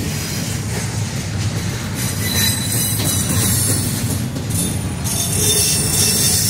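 Double-stack container well cars of a freight train rolling past, a steady loud rumble of steel wheels on rail with a thin high wheel squeal now and then.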